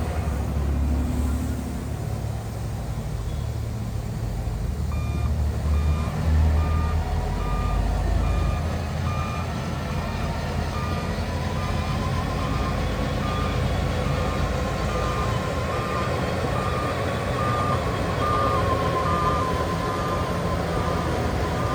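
Heavy construction vehicle's diesel engine running with a low rumble, and from about five seconds in its reversing alarm beeping steadily, about one and a half beeps a second.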